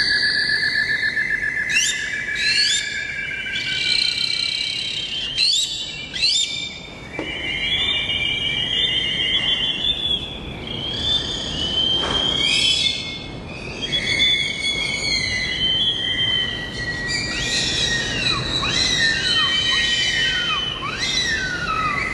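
Several birds calling and singing at once, with overlapping whistles, chirps and trills. A long trilled note runs through the first few seconds, and quick downward-swooping calls come near the end.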